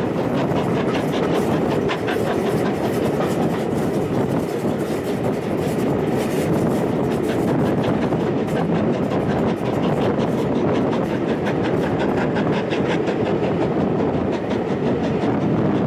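Steam-hauled passenger train heard from an open carriage window: a steady rumble of wheels on the rails with a quick, regular clicking beat, holding an even pace throughout.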